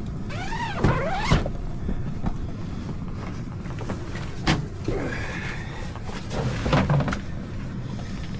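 Canvas tent door zipper pulled in short squealing strokes, with a few sharp knocks. A steady low rumble runs underneath.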